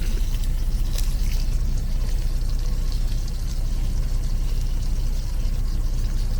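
Truck's diesel engine idling, a steady low rumble heard from inside the cab, with a brief click about a second in.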